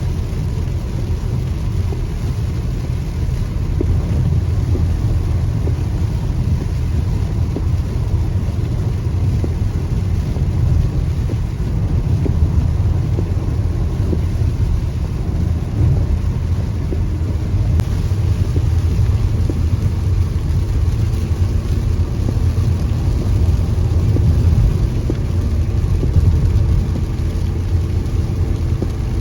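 A car driving in rain: a steady low rumble of road and engine noise, with faint steady tones joining in partway through.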